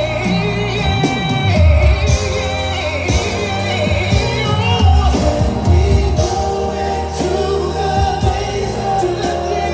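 Live R&B ballad: a band playing with steady bass while singers carry on with long, wavering vocal lines.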